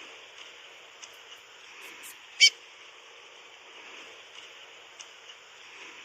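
Curió (chestnut-bellied seed finch) giving one short, sharp, high call about two and a half seconds in, over a steady hiss with a few faint ticks.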